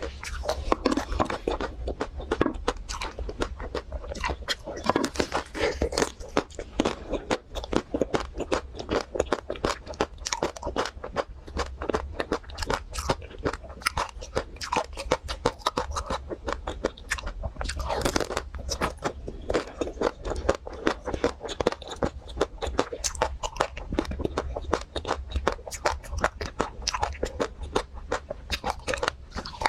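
Close-miked eating of a chocolate-coated ice cream bar: the hard chocolate shell cracks and crunches between the teeth with steady chewing, many crisp crackles in quick succession.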